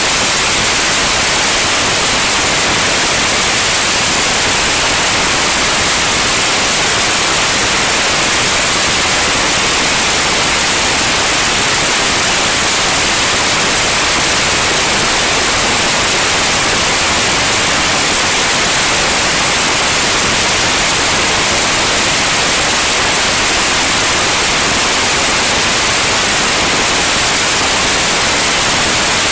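Loud, steady hiss like static, even and unbroken, with no engine tone or voices standing out.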